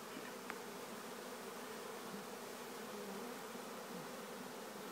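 A honeybee swarm buzzing: a steady, low hum of thousands of bees in the air around the hive.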